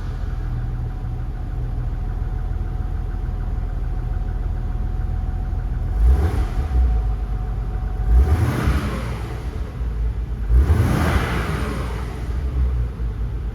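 Nissan 300ZX Turbo's twin-turbo 3.0 L VG30DETT V6 idling steadily, then revved briefly three times in the second half.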